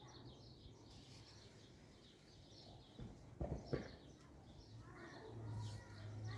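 Faint birds chirping, with two dull knocks about halfway through and a low steady hum that grows louder near the end.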